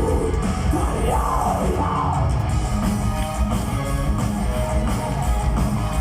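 Power metal band playing live: distorted guitars, bass and drums, with a sung vocal phrase that arches up and down over the first two seconds or so before the instruments carry on alone.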